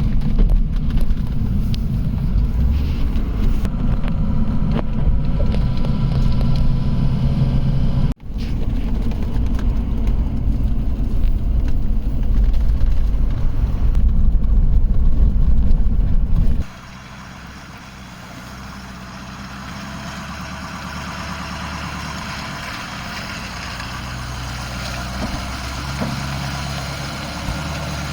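Vehicle driving, with loud low engine and road rumble, broken by a brief dropout about a third of the way in. About two-thirds of the way through it cuts suddenly to a quieter, steady engine running.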